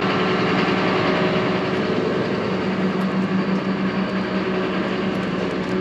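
Tractor diesel engine running steadily, a constant low hum with no change in speed.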